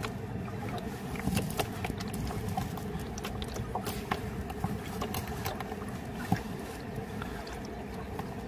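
River stones clacking and knocking against each other at irregular intervals, over the steady rush of flowing river water.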